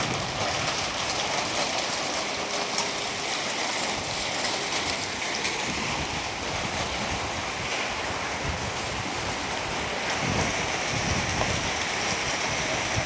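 Steady rain falling, a continuous hiss with scattered small drop taps.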